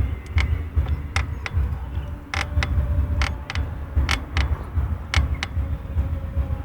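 GT Avalanche mountain bike creaking with sharp, irregular clicks and cracks, over a low pulsing rumble; the owner cannot find where the crackle comes from.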